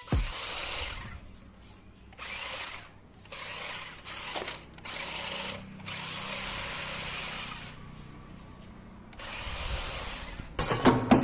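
Small electric motor and gearbox of a toy-grade 4x4 RC rock crawler whirring in about six bursts of a second or two each, as the throttle is pulsed on and off.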